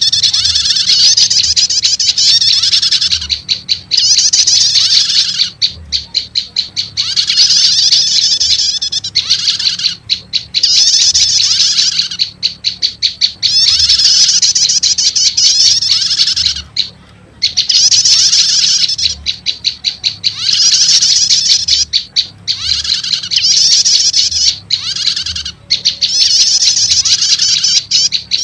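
Recorded prenjak lumut bird-lure calls: loud, rapid high chattering in runs of a second or two with short breaks, laced with repeated arched lower notes.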